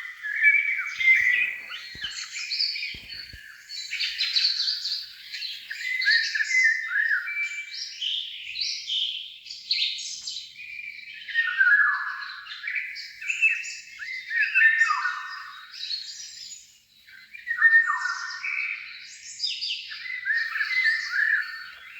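Songbird singing and chirping almost without pause, a varied run of high chirps and down-slurred notes.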